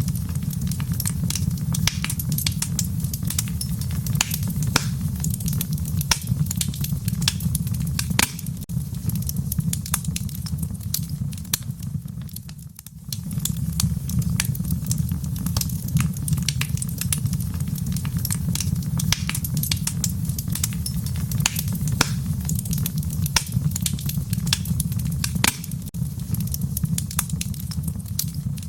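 Fire in a fireplace crackling and popping with many sharp snaps over a steady low rumble. The sound dips briefly near the middle.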